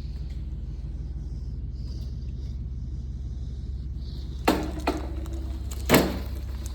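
Steady low machine hum, with three knocks about four and a half, five and six seconds in; the last is the loudest.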